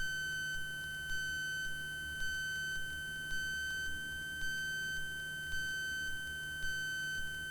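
A steady high-pitched electronic tone, held at one pitch, with a faint pulse about once a second.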